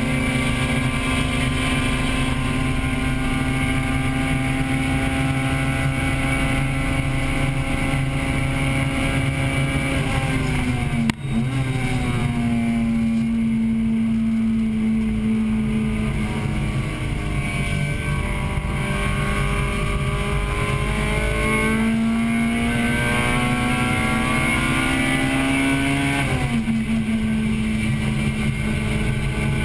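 The 1998 Acura Integra Type-R's four-cylinder VTEC engine running hard at high revs, heard from inside the car. Its note falls sharply with a click about a third of the way through, then climbs steadily and falls sharply again near the end, like a gear change.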